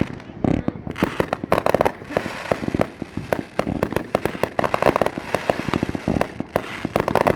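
Fireworks going off in a rapid, continuous barrage: bursts and bangs several times a second, overlapping with crackling.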